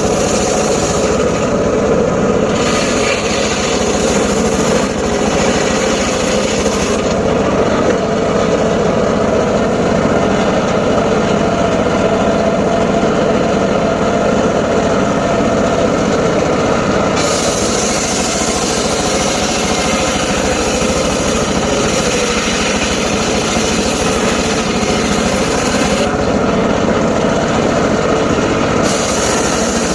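Homemade circular saw running steadily while cutting short teak wood. The sound turns duller for about ten seconds in the middle and again briefly near the end.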